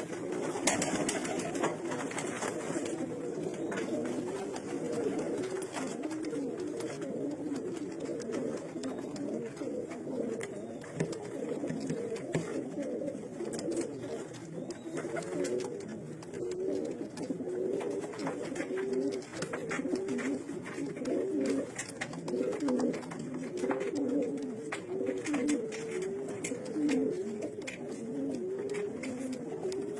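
A flock of racing pigeons cooing steadily, many birds' calls overlapping, with scattered short sharp taps among them.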